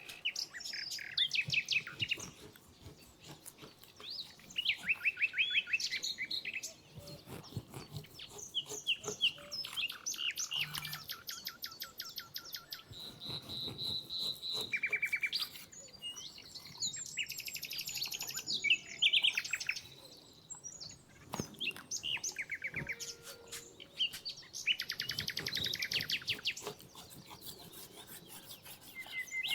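Wild songbirds singing, with short chirped and trilled phrases following one another, and scattered faint clicks and taps beneath.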